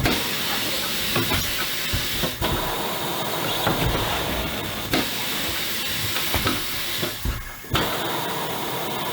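Steady hiss of compressed air escaping, with a short break about seven and a half seconds in, and a few light metallic knocks.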